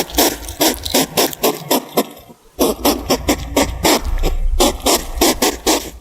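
Hedgehog huffing: a rapid run of short, sharp puffs, several a second, with a brief pause about two seconds in.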